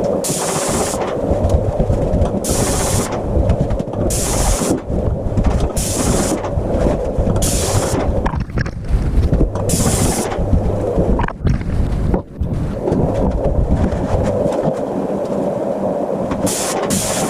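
A steady mechanical drone with repeated short bursts of hiss, about half a second to a second each.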